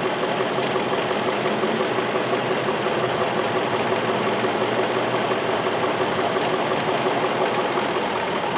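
2003 Infiniti M45's 4.5-litre V8 idling steadily while cylinder number 5 shows no spark signal: a dead ignition coil or cylinder behind its random-misfire code.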